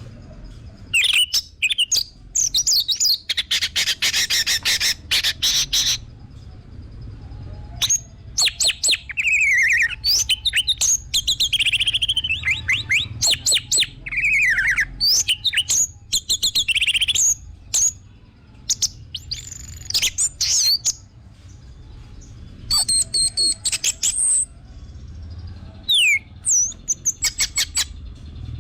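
Orange-headed thrush (anis merah) singing loudly: bursts of rapid rattling notes and whistles that sweep down in pitch, broken by short pauses.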